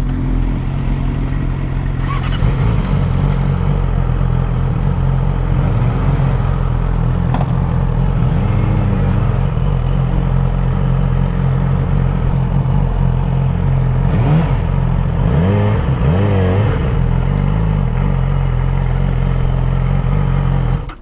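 Motorcycle engine running steadily, its low note shifting a little as it rides at low speed.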